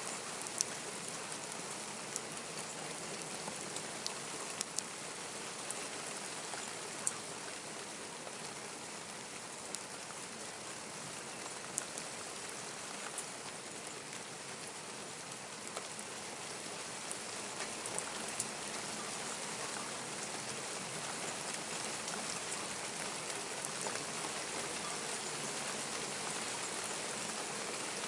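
Steady rain falling, an even hiss with scattered sharp drips and taps of drops landing close by.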